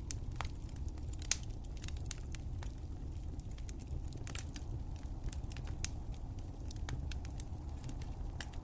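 Wood fire crackling: irregular sharp pops and snaps over a steady low rumble of burning, one pop louder than the rest about a second in.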